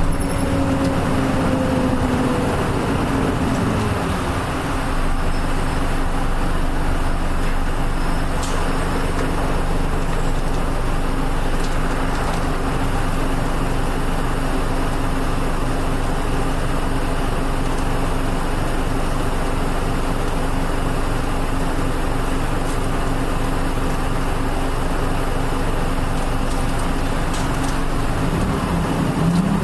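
Onboard running sound of a Nissan Diesel KL-UA452MAN city bus. In the first few seconds a whine falls in pitch as the bus slows. The engine then holds a steady note under road noise, and near the end its pitch starts to rise again.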